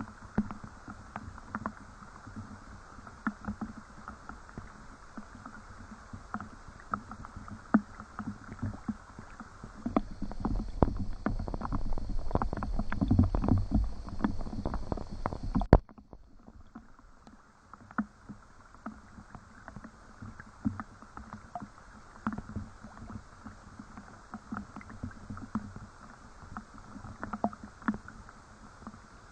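Rain falling, individual drops tapping irregularly over a faint steady patter. About ten seconds in it grows louder and denser, with a low rumble, for about six seconds, then drops back abruptly to the sparse drops.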